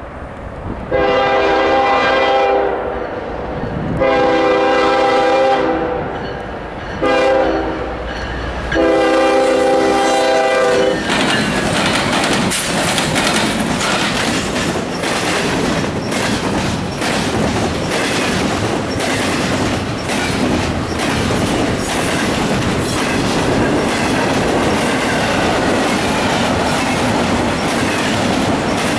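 Norfolk Southern freight diesel's air horn sounding a chord of several tones in two long blasts, a short one and a long one, the grade-crossing signal, as the train approaches. From about eleven seconds in the train passes close and fast, locomotives then double-stack container cars, with a loud rush and steady wheel clickety-clack over the rail joints.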